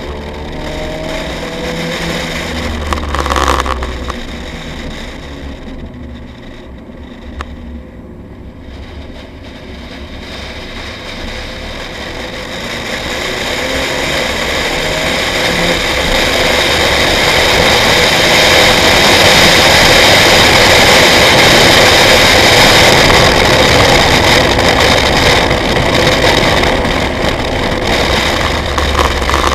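Nissan 180SX lapping a circuit, heard from inside the cabin. About 3 seconds in there is a thump. The engine and road noise then fall away for a few seconds as the car slows, and build steadily into a loud, sustained high-revving drone mixed with wind and tyre noise, which eases near the end.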